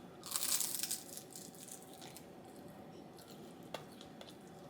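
Packaging crinkling and tearing in a short burst of about a second, then quiet room tone with one small click later on.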